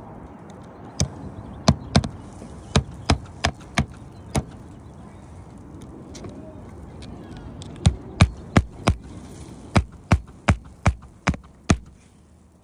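Hammer blows during asphalt shingle roof repair: two runs of sharp, irregularly spaced strikes, about eight in the first few seconds and about ten more after a pause of a few seconds.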